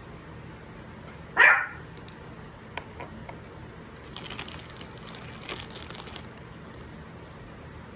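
A dog gives one short, sharp bark about a second and a half in. A few light clicks and a couple of seconds of faint rustling follow.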